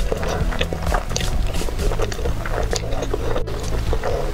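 Close-miked eating sounds of a person chewing a mouthful of fried rice, meatball and glass noodles: many quick, irregular wet clicks and smacks, with low steady background tones underneath.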